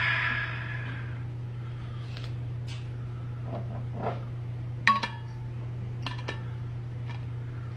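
Cutlery and dishes clinking while eating: scattered light clicks and knocks, the sharpest about five seconds in, after a short rush of noise in the first second. A steady low hum runs underneath.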